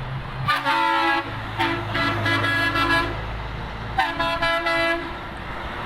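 Truck horns sounding three times, the middle blast the longest, over the low steady running of passing truck engines.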